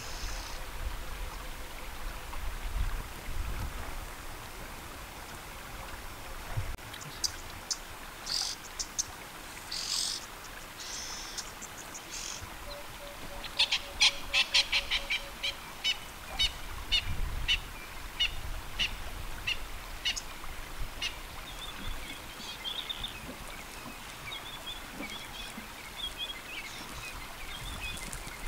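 Wild birds calling: a few sharp high chirps, then a fast run of loud repeated calls in the middle, and a thin trilling song in the last third, over a faint low rumble.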